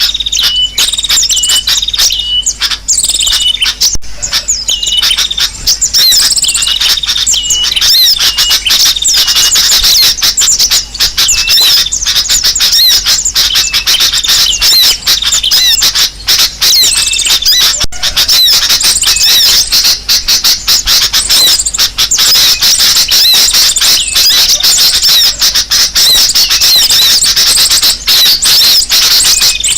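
A dense, loud chorus of many small birds chirping and twittering at once, overlapping high calls and trills with no pause: a bird-lure recording of agitated birds, meant to draw other birds in.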